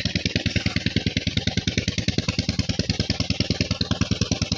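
12LD diesel engine running steadily, an even chugging at about nine beats a second.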